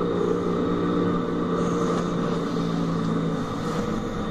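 Electric tram running, a steady rumble with a low electric hum; one low hum tone fades out about three seconds in.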